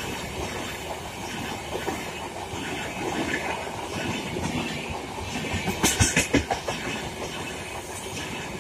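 Humsafar Express passenger coaches rolling past, their steel wheels rumbling on the rails in a steady clickety-clack, with a burst of sharp, louder clacks about six seconds in as wheelsets cross a rail joint.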